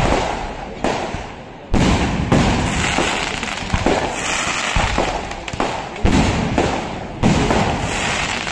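Traditional Kerala temple fireworks (vedikettu) going off: a string of loud, sudden bangs about a second apart, each trailing into rumble and crackling, with no pause between them.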